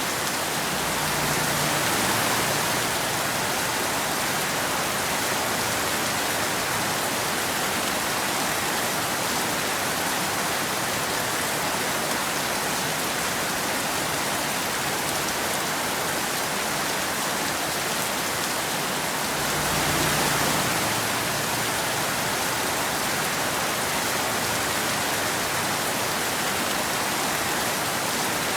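Steady rain falling, an even hiss with no separate drops standing out. It swells slightly twice, about two seconds in and again about twenty seconds in, with a little low rumble under each swell.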